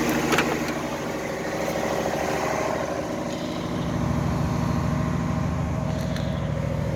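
Engine of a 1974 Chevrolet Suburban idling steadily after a cold start. There is a sharp click about half a second in, and the idle grows fuller and lower in tone from about four seconds in.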